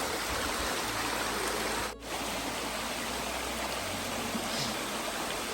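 Small waterfall's water rushing steadily, with a brief dip about two seconds in.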